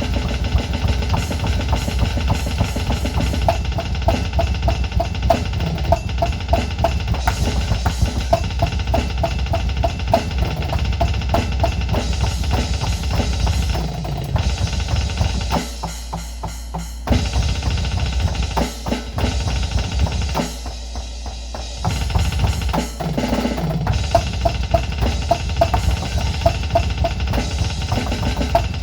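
Electronic drum kit played fast in a metal style, with rapid double-bass kick drumming and snare rolls, heard through a small portable Bluetooth speaker pushed hard. The drumming breaks off briefly twice past the middle.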